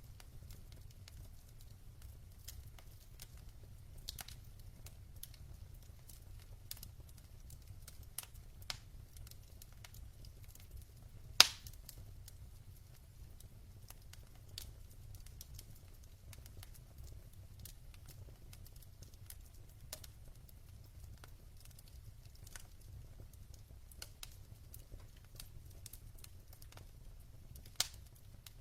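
Logs burning in a fireplace: scattered soft crackles over a low steady rumble, with a sharp pop about eleven seconds in and another near the end.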